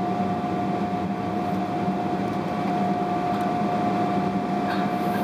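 Steady cabin noise inside a Boeing 777-300ER before takeoff: the GE90 engines at idle and the air conditioning, a constant low hum with a steady whine over it.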